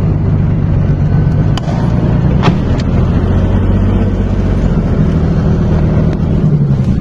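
Heavy military vehicle engine running with a loud, steady drone, with three brief sharp cracks about a second and a half, two and a half and three seconds in.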